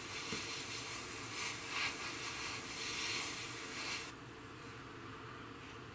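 Airbrush spraying paint: a steady hiss that stops abruptly about four seconds in.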